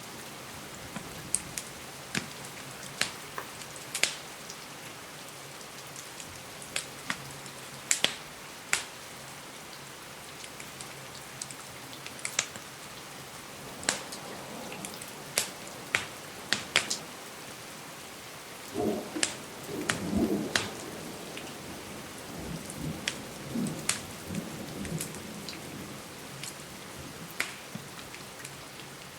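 Steady rain hiss with sharp, irregular pops and snaps of a crackling wood fire. About two-thirds of the way through, a low rumble of distant thunder rolls in for several seconds.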